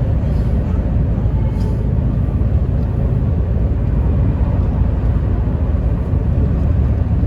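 Steady low rumble of heavy road vehicle noise, engine and tyres.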